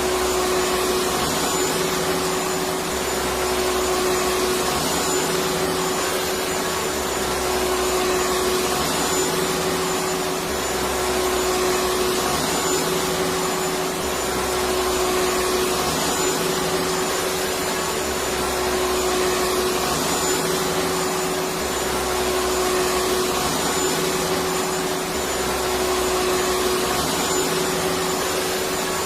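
Electric vacuum cleaner running steadily: an even rush of air with a constant motor hum and a faint high whine.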